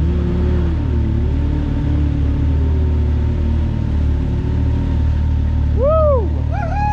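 Can-Am X3 side-by-side engine running at low, gently varying revs while under way. A short rising-then-falling tone, like a voice, comes near the end.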